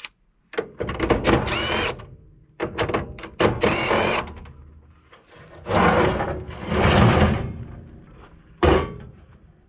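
Metal parts of an air-conditioning unit being dismantled for scrap, scraping, rattling and knocking as they are handled, in several bursts with brief squeals. One sharp knock comes near the end.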